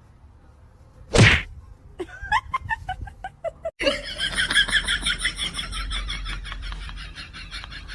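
A single loud whack about a second in, followed by a string of short pitched sounds and then a fast pulsing pattern.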